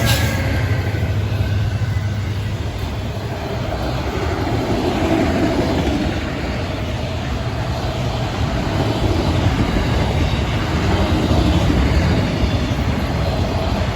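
Diesel-hauled freight train passing at close range: a steady, loud rumble of engines and wheels on the rails. A horn blast cuts off right at the start.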